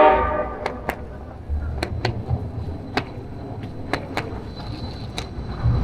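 Busy downtown ambience: a brief voice-like call right at the start, then scattered sharp clicks or taps over a low rumble that swells twice.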